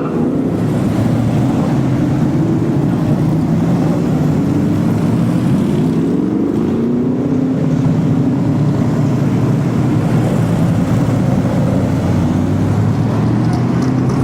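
Car engines running as cars drive past, one engine rising in pitch as it accelerates around the middle, then settling.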